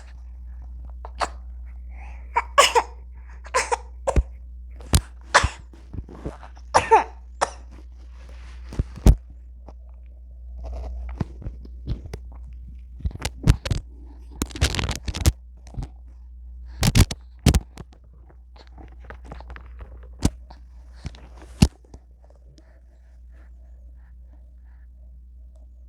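A baby's short coughs and little vocal sounds, coming one after another, with scattered sharp clicks over a low steady hum.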